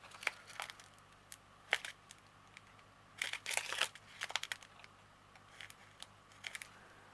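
Small plastic bags of diamond painting drills crinkling and rustling as they are handled, in scattered short crackles with a denser cluster about three to four seconds in.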